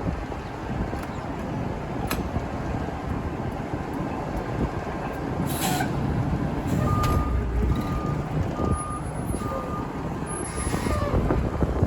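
Garbage truck diesel engine running with a steady low rumble. From about seven seconds in, its backup alarm beeps evenly several times as the truck reverses. A short air hiss comes just before the beeping and another near the end.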